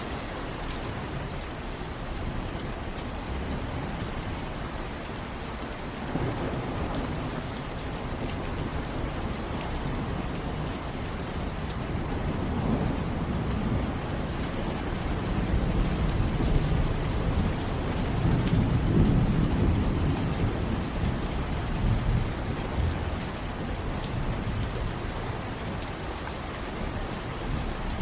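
Steady rain falling, with a low rumble of thunder that swells through the middle and fades again.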